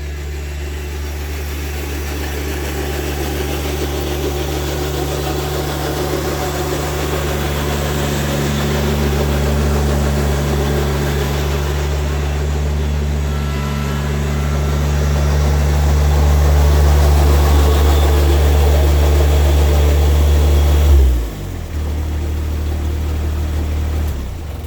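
Kubota 2670 compact tractor's diesel engine running steadily and growing gradually louder, then dropping in pitch about 21 seconds in as it is throttled back to a lower speed.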